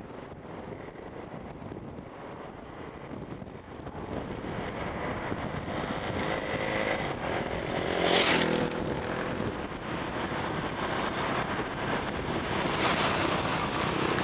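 Motorcycle engine running with wind noise, gradually getting louder, with a louder surge a little over halfway through.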